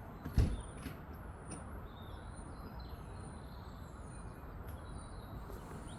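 Steady low rumble of city traffic, with faint bird chirps and one sharp thump about half a second in.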